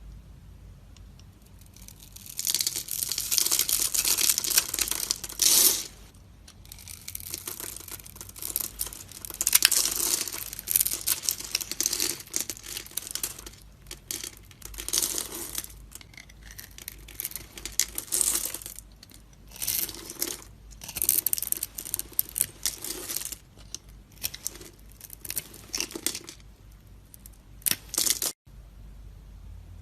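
A knife cutting and scraping into a bar of dry soap, making crisp crunching and scraping sounds. Starting about two seconds in, they come in irregular runs of one to three seconds with short pauses between.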